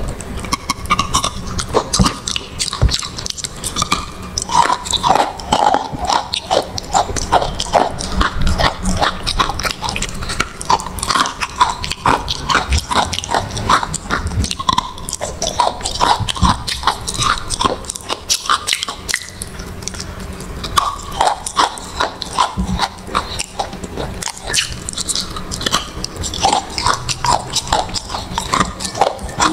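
Close-miked biting and chewing of a brittle, crumbly blue solid: a steady run of crisp crunches and crackles.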